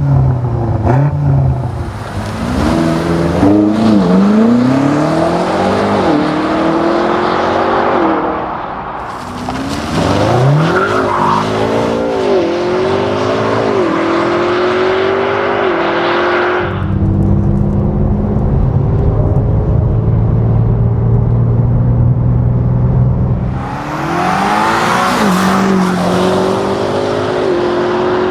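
BMW M5 Competition's twin-turbo V8 accelerating hard through several upshifts: each gear pulls up in pitch, then drops at the shift. It then settles into a steady low drone for several seconds before another run of upshifts near the end.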